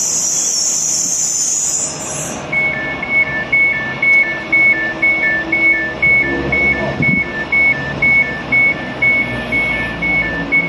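A Trenitalia Pop electric train pulling out, with a high squeal that stops about two seconds in. Then an electronic warning signal starts: two tones alternating about twice a second over the train's running rumble.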